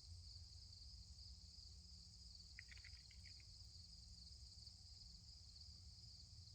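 Faint, steady high trilling of an insect chorus, with a few faint short chirps about three seconds in.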